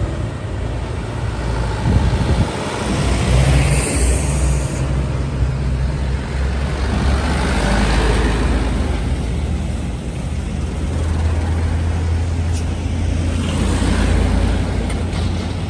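Heavy diesel trucks passing on a mountain climb, their engines running with a deep, steady drone and tyre noise swelling as each goes by. A short hiss of air comes about four seconds in.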